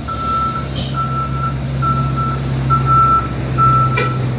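Truck's reversing alarm beeping steadily, about one beep a second, over the low, steady running of its engine. A short sharp click comes near the end.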